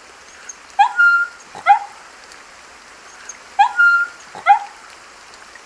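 Puppy whimpering and yelping: two bursts of three short cries, each burst with a drawn-out high whine in the middle, over a faint steady hiss.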